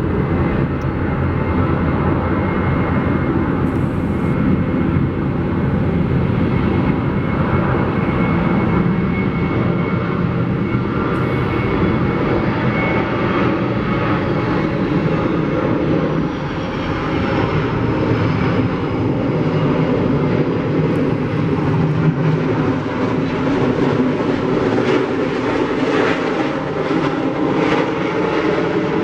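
Airliner jet engines running loud and steady, with a thin high whine over the rumble through the first half.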